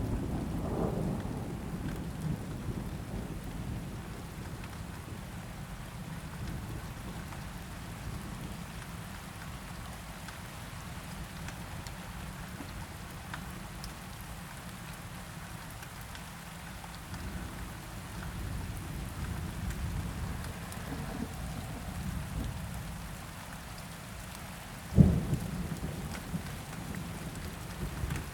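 Steady rain with rolling thunder that fades over the first few seconds. Near the end a sudden sharp thunderclap is the loudest sound, followed by rumbling.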